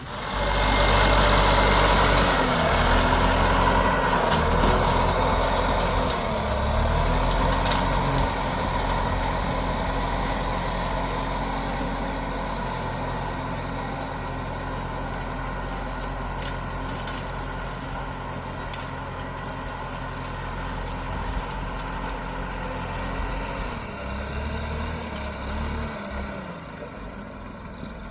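An engine running, its speed dipping and recovering several times as though working under load.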